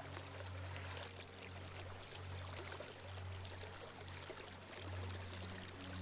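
Small shallow stream flowing and trickling steadily, with a low hum underneath.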